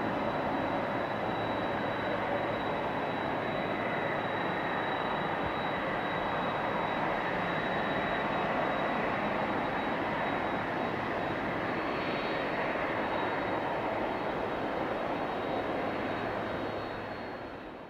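Boeing 767-300's jet engines running steadily, a thin high whine over a broad rush, fading out at the very end.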